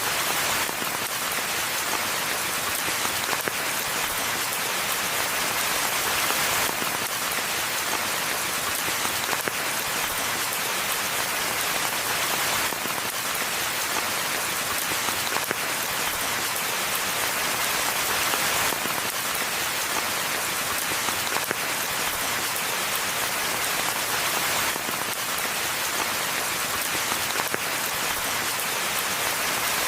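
Steady forest rainfall: a dense, even hiss of falling drops.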